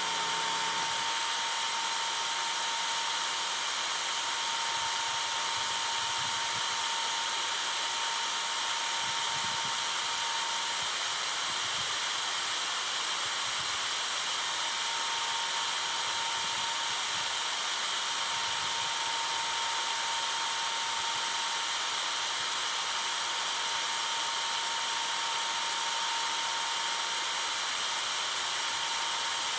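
A steady hissing whine from a running tool or machine, with a thin constant tone under the hiss.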